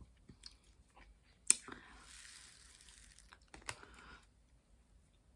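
Small clicks and taps of diamond-painting drills and tools, with a soft rustling hiss of the drills being poured or shaken from about one and a half to four seconds in.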